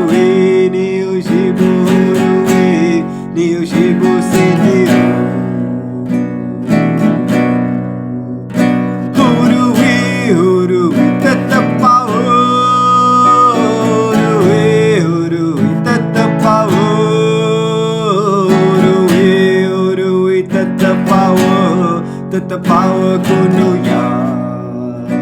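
Acoustic guitar strumming a repeating chord cycle, with a voice singing a Huni Kuin chant melody in long, gliding held notes over it.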